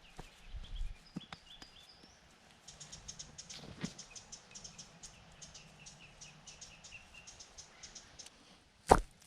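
Birds chirping, with a quick run of high ticks and chirps through the middle, and one sharp knock near the end.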